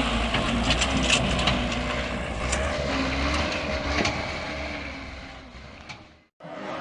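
Heavy vehicle running with a low rumble, scattered knocks and clatter, fading away near the end and cutting off abruptly.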